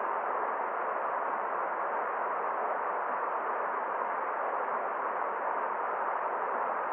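Forest stream flowing: a steady, even rush of water with no other events.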